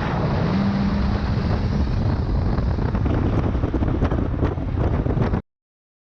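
Car driving, its engine rumbling under heavy wind buffeting on the microphone; the sound cuts off abruptly about five seconds in.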